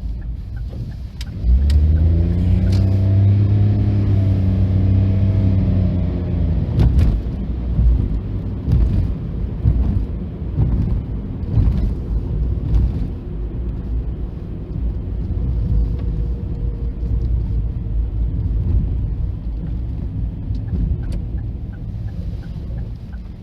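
A diesel railcar passing over a level crossing. Its engine comes in suddenly and loud about a second and a half in, its pitch shifting as it goes by. The wheels then clack over the rail joints in an uneven run of knocks, and the sound fades toward the end.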